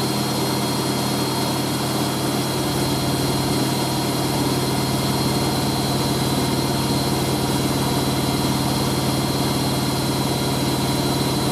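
Hoover A3060 Electronic 1100 washing machine in its final spin at full 1100 rpm: a steady, even hum and motor whine from the spinning drum. The towel load is spinning well balanced and stable.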